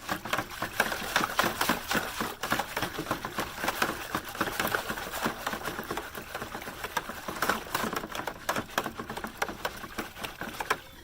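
Dye being stirred hard in a plastic bucket: a rapid, irregular clatter of the stirrer knocking against the bucket, mixing out undissolved blue specks of dye.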